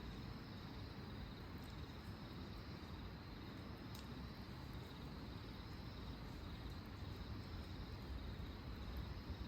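Campfire burning with a few sparse, sharp crackles, over a steady high-pitched cricket trill.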